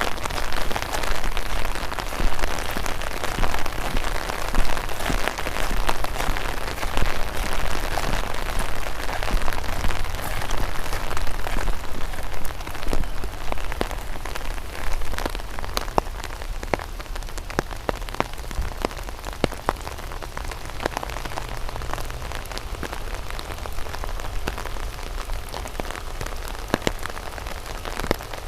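Light rain falling, a steady hiss with many separate drops ticking sharply close to the microphone, easing a little in the second half.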